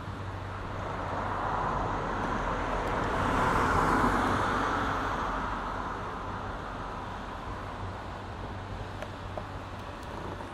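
Passenger coaches rolling slowly along yard track: a broad rushing noise that swells to its loudest about four seconds in and then eases off, over a steady low hum.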